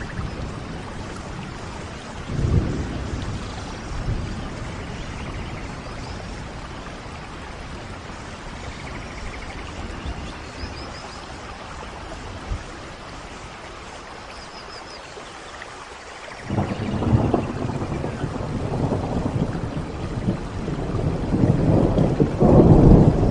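Steady rain falling, with a brief low rumble of thunder about two seconds in and a longer, louder rumble of thunder building over the last third.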